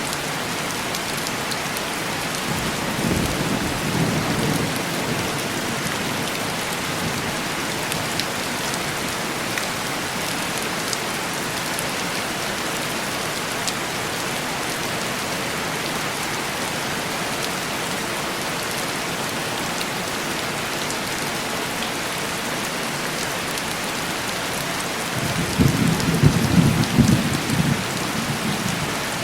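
Heavy rain pattering on a window glass, a steady hiss, with two low rolls of distant thunder: a softer one a few seconds in and a louder one near the end.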